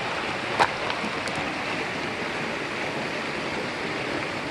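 Stream water rushing steadily, with one sharp click about half a second in and a few faint ticks after it.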